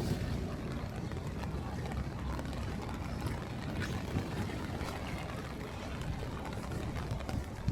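Steady outdoor city street noise in stormy weather, a continuous low rumble with a few faint ticks and no clear single event.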